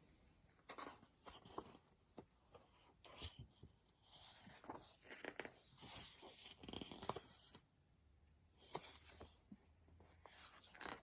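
Quiet rustling and handling of a picture book's paper pages as they are turned, with small clicks and taps scattered through, the busiest stretch in the middle.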